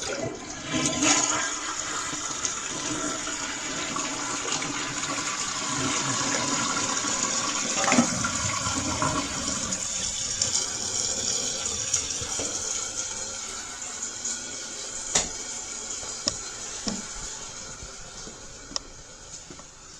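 Toilet flushing: a click at the start, then water rushing through the bowl for several seconds that gradually dies away, with a few sharp clicks near the end.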